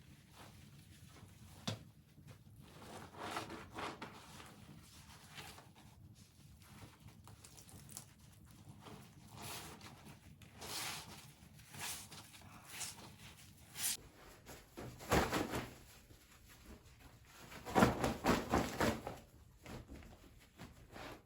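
Irregular handling noises: scattered knocks and rustles, with two louder bursts of rapid clattering about fifteen seconds in and again around eighteen to nineteen seconds.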